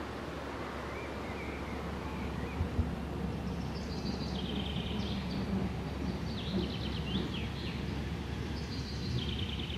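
A songbird singing three short trilled phrases over a steady low outdoor rumble.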